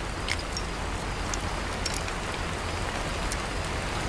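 A steady, even rain-like hiss with a few faint, sharp ticks scattered through it.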